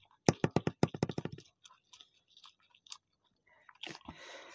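Mouth sounds of chewing raw leaves: a quick run of wet clicks for about the first second and a half, then a few scattered ones, and a breathy exhale near the end.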